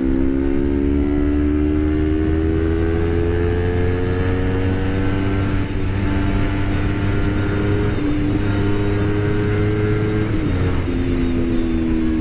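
Honda CBR250RR's 249 cc parallel-twin engine pulling hard under acceleration on the move, its pitch climbing steadily, with a brief dip about six seconds in and an upshift near the end where the pitch drops. Wind noise runs underneath.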